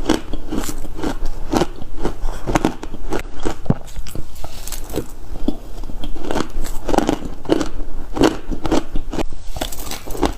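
Shaved ice being bitten and chewed close to the microphone, mouthful after mouthful of dense, crackly crunching with several crunches a second.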